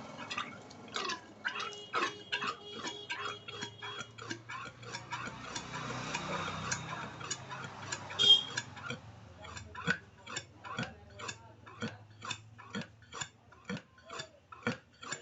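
Regular mechanical clicking, about two clicks a second, with one louder click a little past the middle and a brief steady high tone early on.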